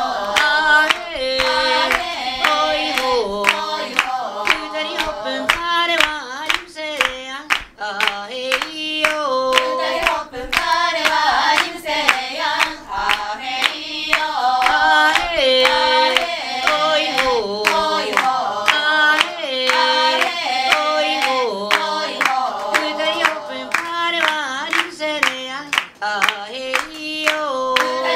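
Group of voices singing a traditional Ainu song in unison, with regular hand claps keeping the beat.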